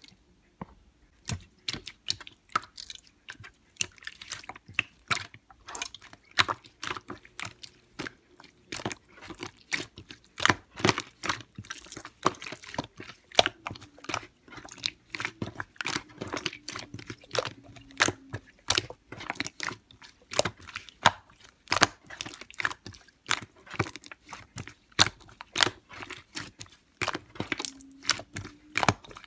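Soft, slightly melted slime being squeezed and poked by hand, giving a dense, irregular run of sharp clicks and crackling pops.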